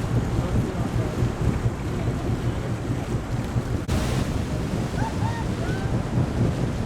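Wind buffeting the microphone on an open tour boat under way, a loud uneven rumble over the rush of water, with a sharp click about four seconds in.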